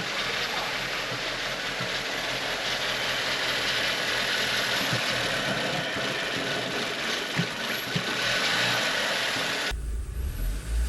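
The freshly rebuilt 2.0-litre turbocharged four-cylinder engine of a 2007 Audi A4 running just after its first start, a dense steady noise with a few light clicks. About a second before the end the sound changes abruptly to a deep low rumble.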